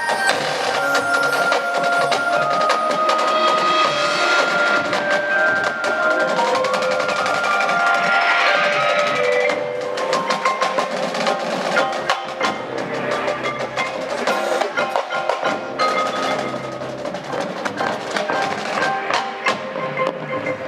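Marching band music with prominent front-ensemble mallet percussion (marimba, xylophone, glockenspiel) over sustained melody notes and rapid percussion strikes. About ten seconds in it becomes somewhat quieter and lighter.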